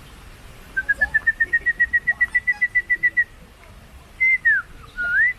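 A bird calling: a rapid run of about eighteen short whistled notes, about eight a second, rising slightly in pitch and then holding level, followed about a second later by a whistle that slurs downward and then one that slurs upward.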